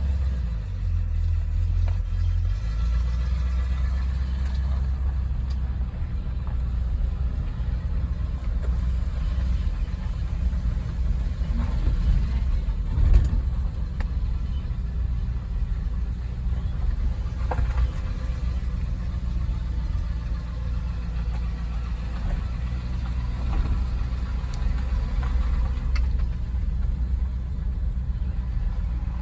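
Car engine running with a steady low rumble, as the car drives or idles, with a brief knock about 13 seconds in.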